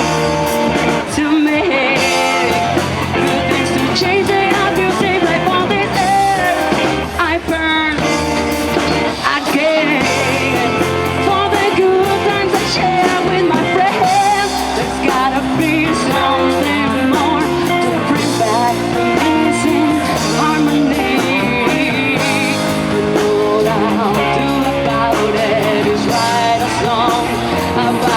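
A live rock band playing, with a singer, electric guitar, bass and drums.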